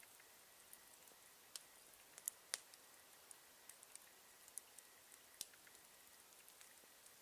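Campfire crackling faintly: scattered soft pops and snaps over a low hiss, with a couple of sharper snaps a little after two seconds in.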